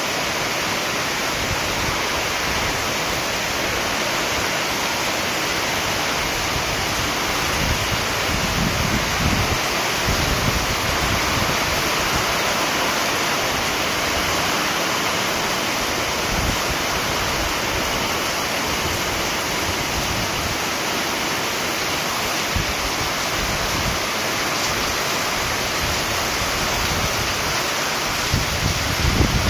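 Heavy rain pouring steadily in a strong, gusty wind, with wind buffeting the microphone now and then.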